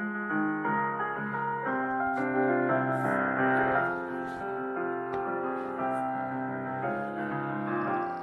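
Background music: soft piano playing a melody over sustained notes.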